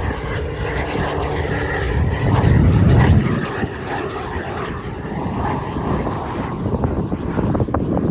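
Pilatus PC-12 single-engine turboprop (Pratt & Whitney Canada PT6A) running, a steady propeller and engine drone that grows loudest about three seconds in and then eases off.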